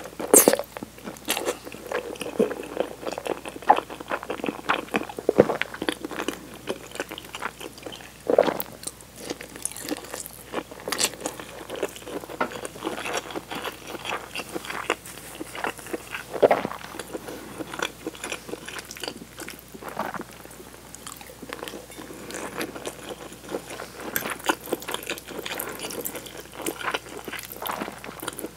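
Close-miked eating sounds: a woman chewing forkfuls of tomato cream spaghetti and seafood stick, with many wet mouth clicks and a few louder bites.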